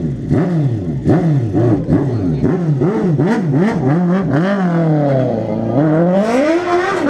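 A vehicle engine revved in quick throttle blips, its pitch rising and falling about twice a second. Near the end it drops lower and climbs back up.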